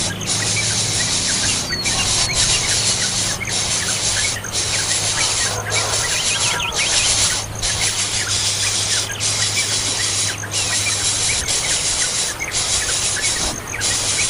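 Shrill, continuous squealing calls of young birds begging, broken by short pauses about once a second. A steady low hum runs under it and stops near the end.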